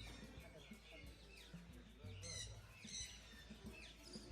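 Birds in an aviary chirping faintly: a scatter of short, high chirps that fall in pitch, over a low steady hum.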